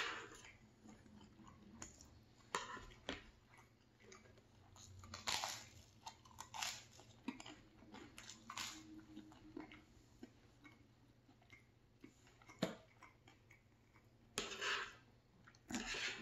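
A person chewing and biting a breakfast of scrambled eggs, sausage and toast close to the microphone, in separate bursts every second or two, with one sharp click about two-thirds of the way through.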